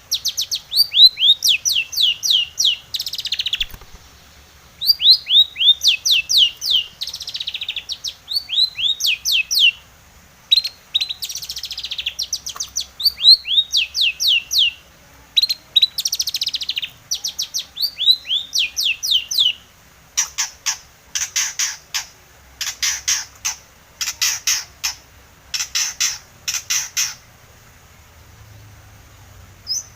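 Long-tailed shrike (cendet) singing: quick runs of high, downslurred whistled notes in bursts of five to eight, then, about two-thirds through, a series of about eight harsh, scratchy calls, evenly spaced.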